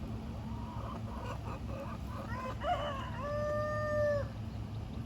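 A rooster crowing once, starting about two and a half seconds in: a short rising opening, then one long held final note that stops abruptly about a second later.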